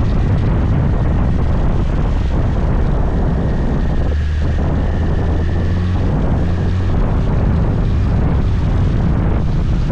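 Scooter engine running steadily while riding, with wind and road noise rushing over the microphone.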